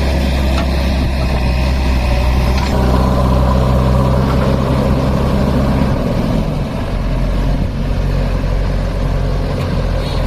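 Heavy diesel engine of a tractor or loader running steadily, its note changing and dropping lower and rougher about six seconds in.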